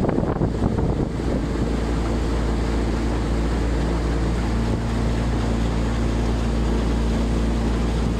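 A motor vehicle's engine running steadily, giving a low even hum. Wind buffets the microphone in the first second.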